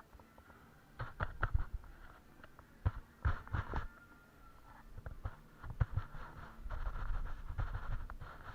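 Irregular taps, knocks and scraping, loudest in clusters in the first few seconds, with a low rumble setting in past the middle.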